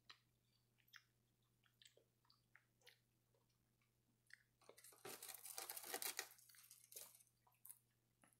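Close-miked chewing of crisp seaweed: scattered small crunches and mouth clicks, then a dense crackling crunch for about two seconds just past the middle, followed by a few more clicks.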